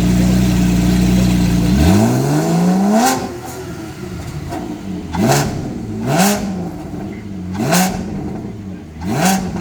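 Porsche 718 Spyder's 4.0-litre flat-six, through an Innotech aftermarket exhaust, revved while stationary. It is held at a steady rev for about two seconds, falls away, then is blipped sharply about five times, each rev climbing quickly to a loud rasping peak and dropping back.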